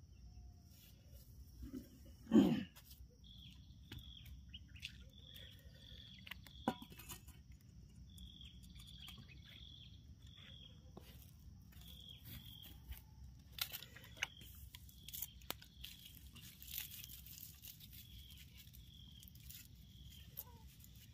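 A bird chirping, short high notes repeating about once or twice a second, over a faint steady high whine. One short loud thud about two seconds in.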